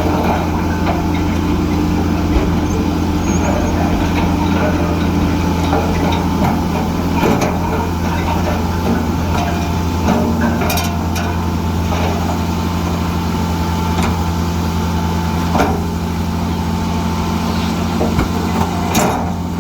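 Heavy diesel engine of earthmoving machinery running steadily, with a few sharp metallic clanks.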